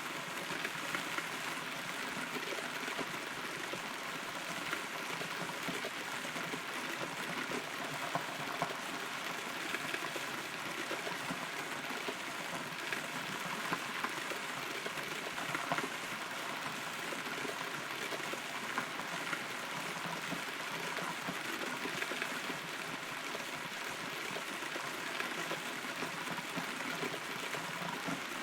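Steady rain heard from inside a hollow rotten tree, a constant hiss with many small, irregular drop ticks.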